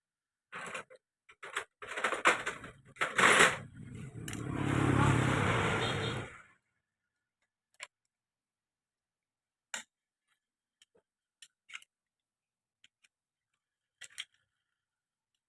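Metal tools and engine parts clinking and clattering as they are handled, followed by a scraping, rattling noise that swells and fades over about two seconds, then a few scattered light clicks.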